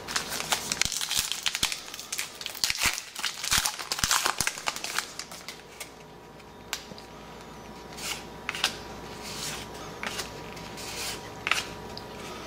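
Crinkling of a trading-card pack wrapper and the rustle and flick of cards being handled. It is dense crackling for about the first five seconds, then scattered clicks and short rustles.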